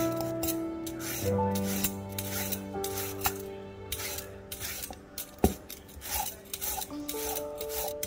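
Repeated rasping scraping strokes, about one or two a second, during vegetable preparation, with a single sharp click about five and a half seconds in. Soft background music with held notes plays underneath.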